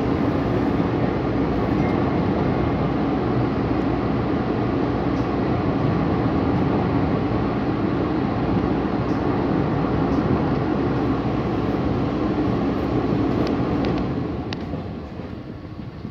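LIRR M3 electric multiple-unit train running at speed, heard from inside the car: a steady rumble with a steady hum. About two seconds before the end the noise drops noticeably and a few faint wheel clicks come through.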